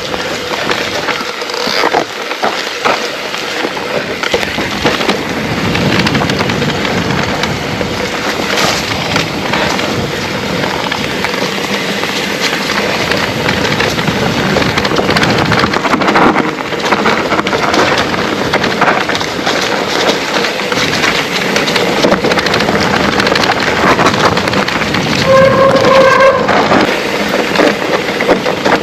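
Trek Rail 7 electric mountain bike ridden over rough trail: a steady rattling rumble of tyres and bike, full of small knocks and clatters. A brief squeal comes near the end.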